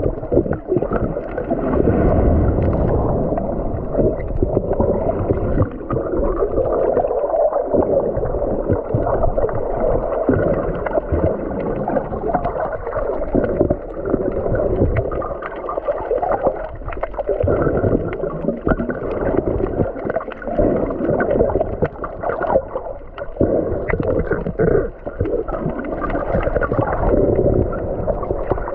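Muffled, gurgling water noise heard with the camera underwater while snorkeling: water sloshing and bubbling against the housing, going on unevenly throughout.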